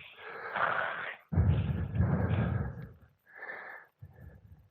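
A person breathing hard and panting after exertion, several long, noisy breaths, some with a deep rumble of breath or wind on the microphone.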